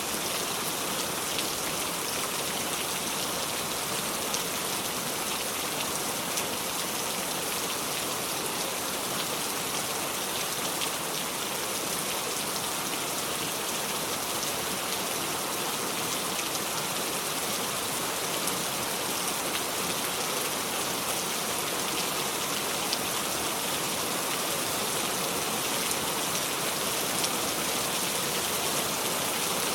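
Steady heavy rain falling, an even hiss with small drop ticks scattered through it and no thunder.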